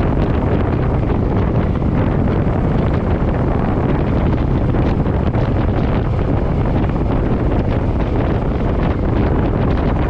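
Wind buffeting the microphone at riding speed, with a Suzuki Boulevard M50's V-twin engine running steadily underneath.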